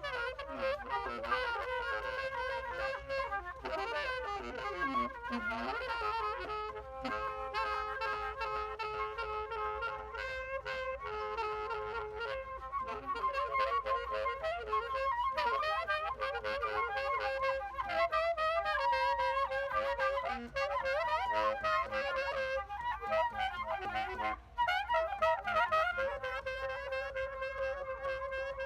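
Live instrumental jam: wind instruments playing held and moving melodic notes over a long-held steady tone, with frequent light clicks. Near the end one note slides down in a long glide.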